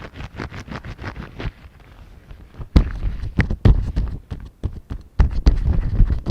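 Rubber-gloved fingers tapping and scratching on a microphone: quick light taps for the first second and a half, then louder, heavier bumps and rubbing with deep thuds from about three seconds in.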